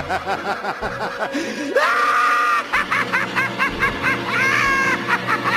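Rapid laugh-like cackling calls, broken by two higher drawn-out squeals, over background music.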